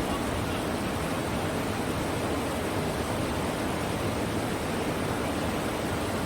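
Steady rush of river water, the Green River's rapids or falls running as an even, unbroken roar.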